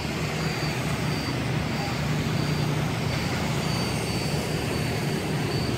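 Passenger train carriages rolling slowly past a level crossing: a steady low rumble mixed with road traffic. A faint, short, high beep repeats about every two-thirds of a second.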